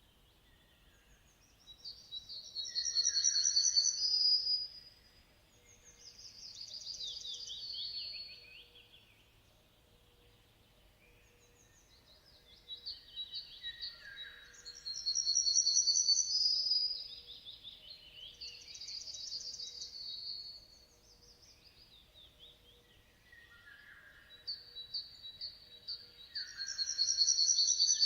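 A songbird singing the same song over and over: a loud phrase of quick chirps and trills, then a softer descending phrase, with pauses of a few seconds between songs, three times in all.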